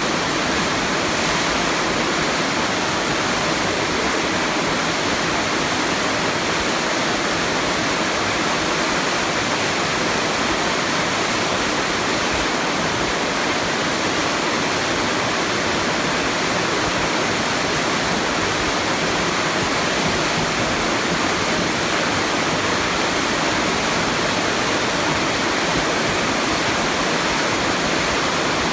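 Water rushing steadily down a flood channel: a constant, loud, even rush with no breaks.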